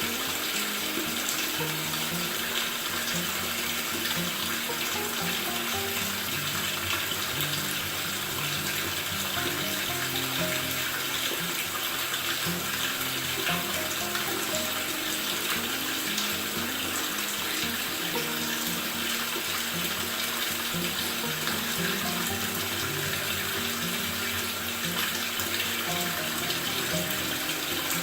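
Water running steadily into a Maytag top-load washer's tub as it fills, under background music with a low melodic line.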